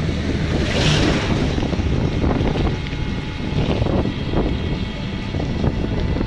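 A vehicle running steadily, with wind buffeting the microphone as a low, uneven rumble, and a brief hiss about a second in.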